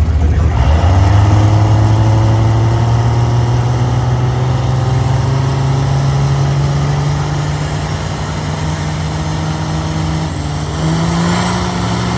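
A car engine running steadily under load, its note climbing slowly in pitch and stepping up again near the end.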